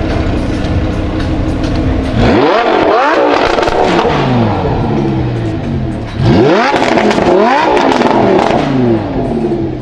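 Lamborghini Huracan LP610-4's naturally aspirated V10 through a Frequency Intelligent aftermarket exhaust, idling and then blipped twice: each rev climbs sharply in pitch and falls slowly back, with crackles on the overrun.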